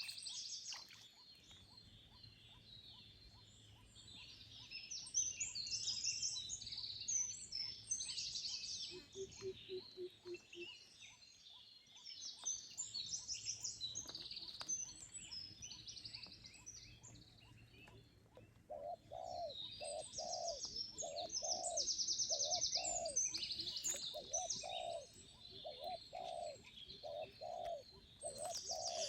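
Birdsong: several birds chirping with quick, high notes throughout. Partway in, a short run of low notes sounds, and from about two-thirds of the way in a lower call repeats at about two notes a second.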